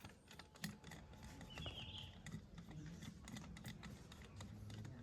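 Faint, irregular light clicks and taps of small hard objects.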